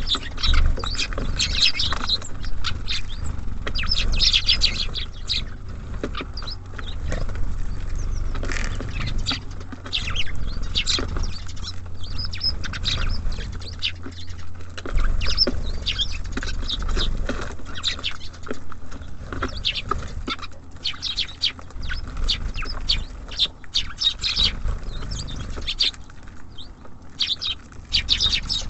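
Small songbirds at a feeder, tits and sparrows, chirping and twittering in many short, quick calls, with a steady low rumble underneath.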